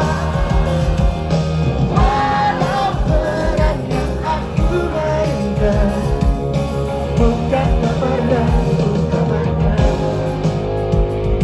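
Live rock band music with singing over the band, the loudness steady throughout.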